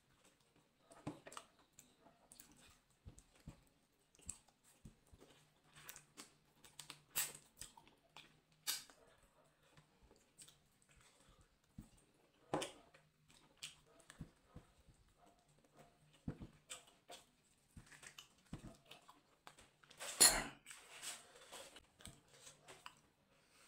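Close-up eating sounds: a man biting and chewing meat off the bone, with scattered wet smacks and clicks. A louder single knock comes about three-quarters of the way through.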